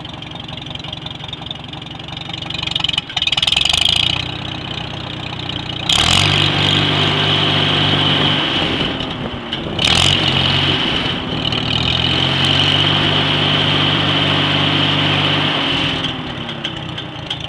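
1946 International Harvester I-4 tractor's four-cylinder engine running through a new muffler, idling, then briefly revved about three seconds in. From about six seconds in it is held at higher speed with a short surge near ten seconds, before easing back to idle near the end.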